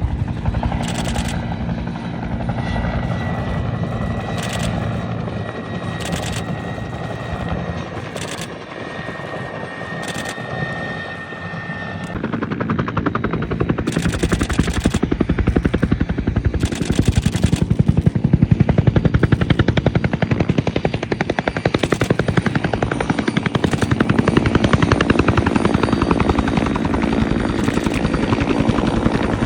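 Aircraft passing low, their engines running with a rapid throb from propellers or rotors, louder from about twelve seconds in. Short bursts of rapid camera shutter clicks sound over it every second or two.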